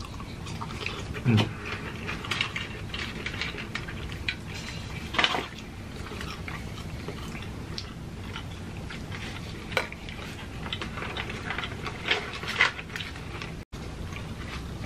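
Close-miked chewing and mouth sounds of people eating food, with irregular small clicks and a few louder smacks.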